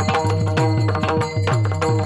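Instrumental devotional kirtan music with no singing: a hand drum beats steadily at about four to five strokes a second, its low strokes bending down in pitch, under held notes of a melody instrument.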